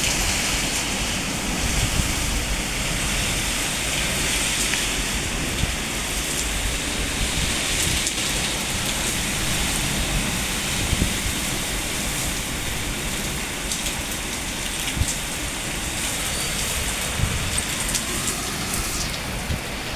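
Heavy hurricane rain pouring steadily, with irregular low gusty rumbles underneath.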